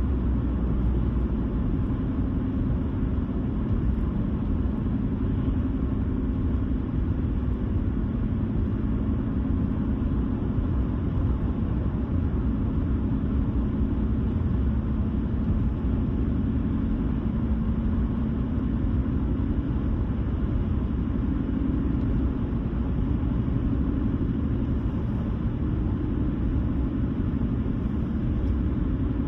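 Car driving steadily at road speed: even tyre and road noise with a low engine hum.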